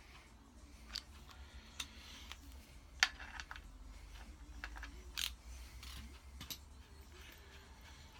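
Irregular sharp metallic clicks and taps of a hand tool on the engine, about seven over several seconds, as bolts are pinched up.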